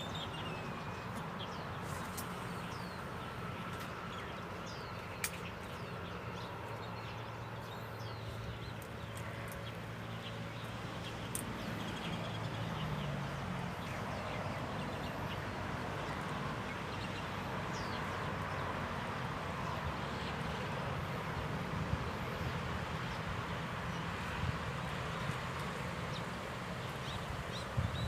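Outdoor ambience: a steady background hiss with scattered short bird chirps and a few faint clicks.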